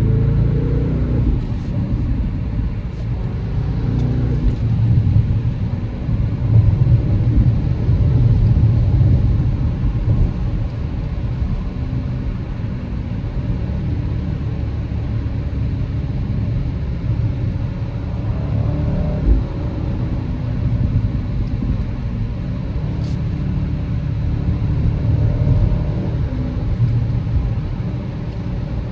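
2025 BMW X6M's twin-turbo 4.4-litre V8 running under way, heard from inside the cabin along with road noise. The engine note rises and falls with the throttle, and is a little louder several seconds in.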